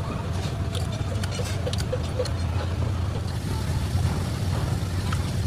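Mercedes-Benz 12-litre V8 diesel engine running steadily with a deep, even rumble.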